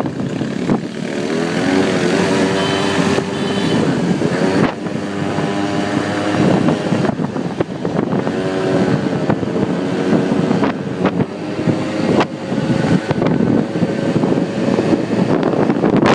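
Quad bike engine running under way, its pitch rising and falling several times as it speeds up and eases off, with wind rushing over the microphone.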